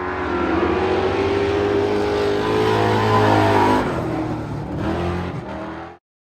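Race car engine revving and running at speed; its pitch climbs until about three and a half seconds in, then drops, and the sound cuts off suddenly near the end.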